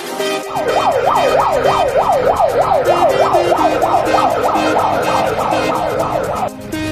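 A siren in a fast yelp, its pitch sweeping up and down about three times a second, starting just after the beginning and cutting off near the end, over background music with a steady beat.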